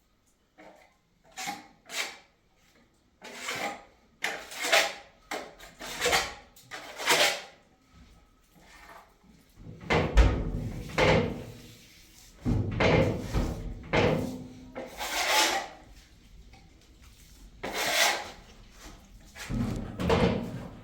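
A series of irregular knocks, bangs and scrapes of hard objects being handled, with heavier thuds in the second half.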